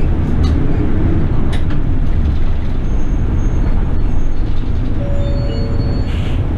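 Inside a Toei city bus on the move: steady, loud engine and road noise, with a few brief rattles and a short air-brake hiss about six seconds in.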